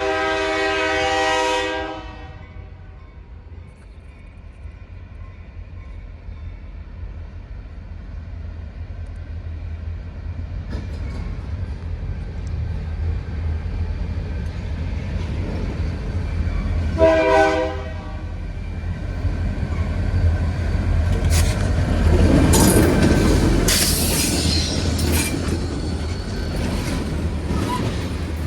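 Grand Elk Railroad train passing: the diesel locomotive's horn sounds a long blast, then a short one about 17 seconds in, over a low rumble that grows. About 21 to 25 seconds in, the train is loudest, with wheel clicks on the rail joints and a high squeal.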